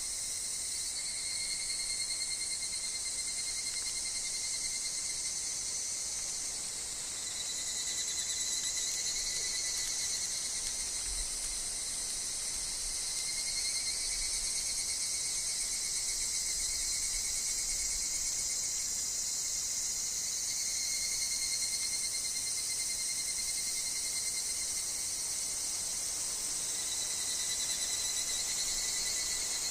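A woodland insect chorus of higurashi (evening cicadas) and other insects, a steady high-pitched shimmering trill that swells and fades slightly without a break.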